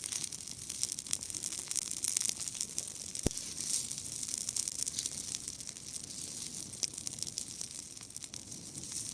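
Dry grass burning in a bonfire: a steady rushing hiss of flame full of small quick crackles, with one sharper pop about three seconds in.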